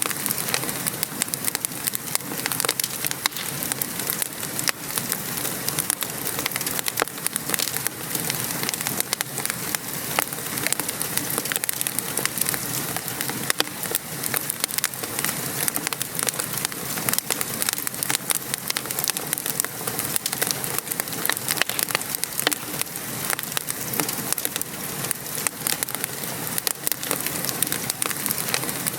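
Wood fire crackling, with many sharp irregular pops, over a steady patter of gentle rain.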